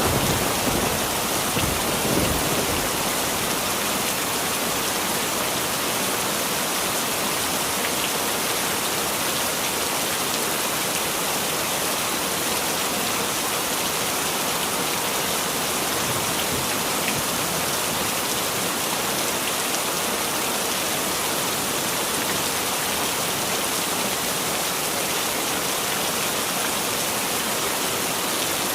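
Heavy rain falling in a steady, even downpour. A thunder rumble dies away in the first couple of seconds.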